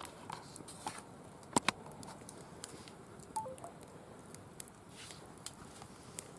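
Firewood burning in a wire-mesh fire pit, crackling with irregular sharp pops; two louder pops come close together about a second and a half in.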